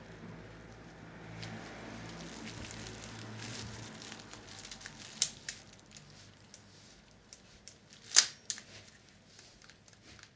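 Small parts of a cassette recorder's tape mechanism being handled and worked loose by hand. There is rustling and scraping first, then scattered sharp clicks, with a loud click about five seconds in and the loudest about eight seconds in.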